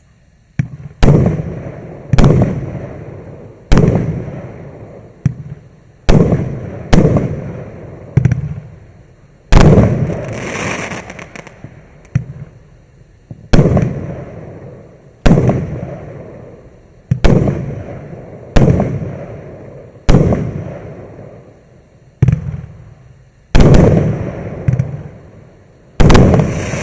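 Consumer fireworks battery (Maxsem GWM5034, 19 shots of 1.2-inch calibre) firing its shots one after another. Each shot is a sharp bang with a fading rumbling tail, about one every one to two seconds. A couple of the bursts, one around ten seconds in and one near the end, trail off in a longer high crackling hiss.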